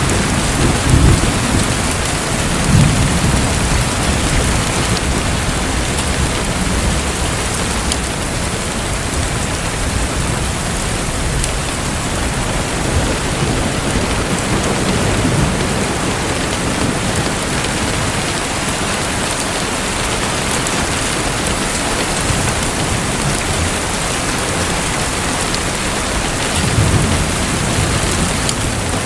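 Steady rushing water noise, with a few low rumbling swells.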